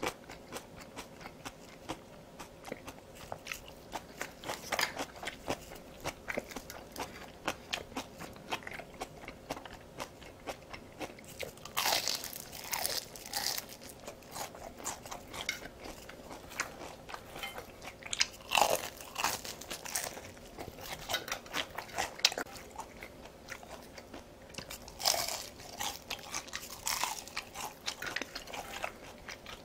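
Close-miked crunching and chewing of crispy battered fried food, a dense run of small crackles broken by several louder, crunchier bites.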